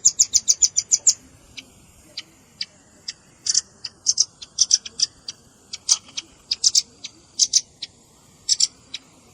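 Velvet-fronted nuthatch calls: a rapid, high-pitched trill of sharp notes that stops about a second in, followed by scattered sharp high chips, some single and some in quick pairs and triplets.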